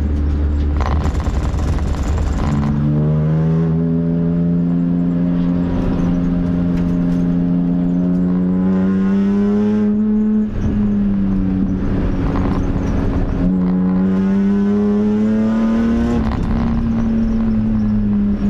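BMW M3 race car's engine heard from inside the cabin on a hot lap, pulling hard. Its pitch climbs under acceleration and drops at each gear change, several times over.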